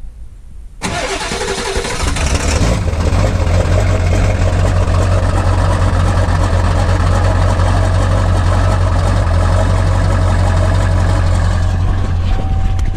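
1997 Ford F-350's 7.3-litre Powerstroke turbo-diesel V8 started cold, with two bad glow plugs and no block heater. About a second in it is cranked and catches almost at once, then settles into a steady, loud diesel idle.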